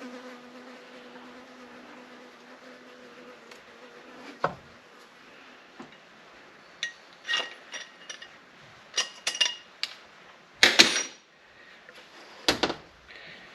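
Sharp metallic clinks and knocks of engine parts and hand tools being handled as the cylinder head comes off a KTM 690 Duke's single-cylinder engine, about eight separate strikes, the loudest near the end. A steady low hum runs under the first few seconds and stops suddenly.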